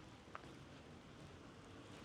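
Near silence: faint outdoor background hiss, with one brief click about a third of a second in.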